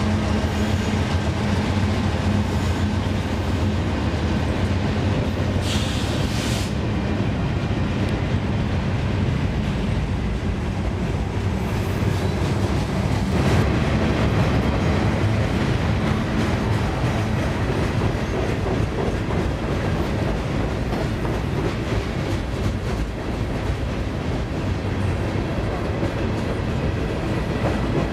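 Freight train rolling past close by: a steady rumble and clatter of steel wheels on the rails, with the diesel locomotives' engines humming in the first couple of seconds before the freight cars take over. A brief high-pitched noise comes about six seconds in and a single clank about halfway through.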